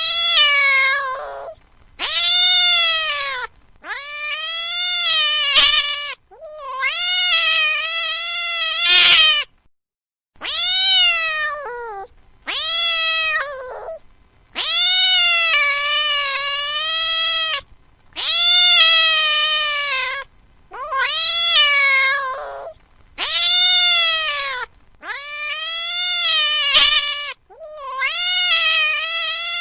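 A cat meowing again and again: about a dozen long, drawn-out meows with short gaps between them, each rising and then falling in pitch.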